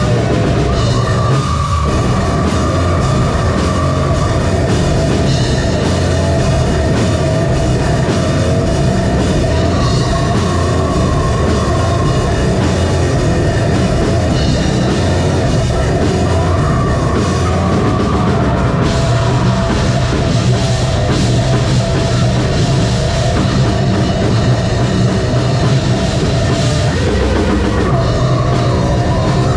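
Live heavy metal band playing: distorted guitars, bass and drum kit at a steady loud level.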